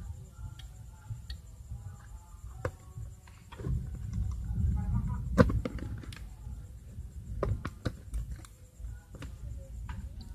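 Clicks and knocks from an electric clothes iron being handled and switched on and off during testing, over a low rumble of handling noise. The sharpest click comes about five and a half seconds in.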